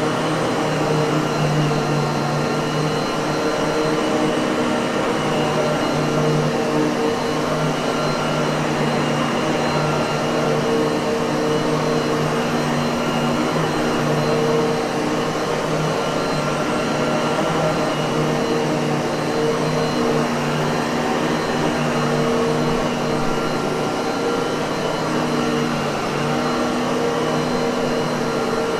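Miele vacuum cleaner motor running steadily, a constant whooshing hum with a few fixed tones in it.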